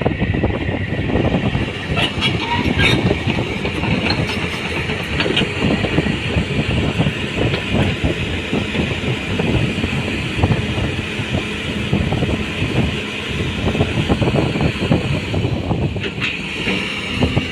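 Tugboat's diesel engine running steadily, a loud continuous rumble, with a few light clicks about two seconds in and again near the end.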